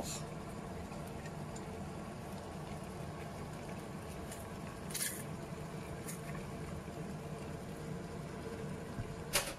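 Chopped vegetables, garlic and bacon frying in butter in a large soup pot on high heat, a steady sizzle. A spatula clicks against the pot about five seconds in and again near the end.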